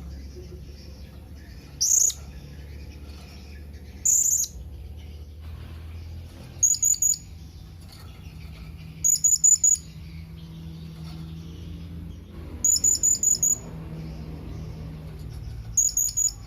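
Blue-crowned hanging parrot (serindit) giving high, thin contact calls: two single drawn-out notes, then quick strings of three to five short sharp notes, repeated several times. A steady low hum runs underneath.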